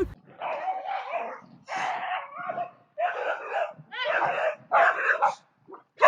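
A dog barking in a run of about five long, harsh barks with short gaps between them.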